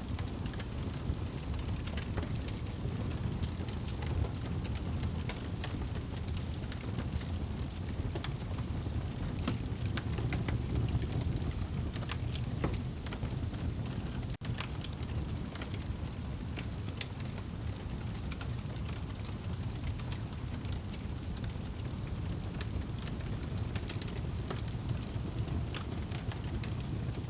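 Crackling fire over steady rain: a constant low rumble of rain with irregular sharp pops and crackles from the fire. The sound cuts out for an instant about halfway through.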